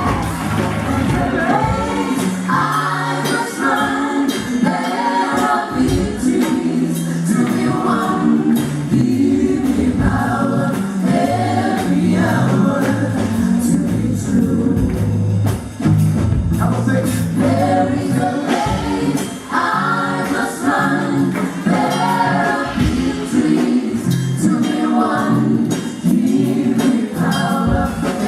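Contemporary Christian African band performing live gospel music: several voices singing together over bass and percussion.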